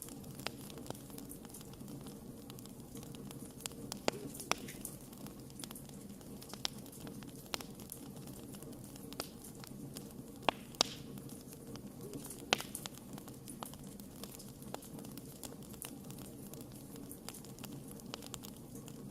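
Wood fire burning with a steady low rumble and irregular sharp crackles and pops, a few louder pops through the middle.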